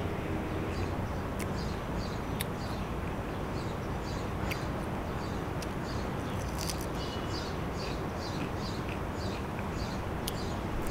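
A small bird chirping over and over, the chirps settling into a quick regular series of about three a second from about halfway through, over a steady outdoor hiss. A few sharp clicks stand out here and there.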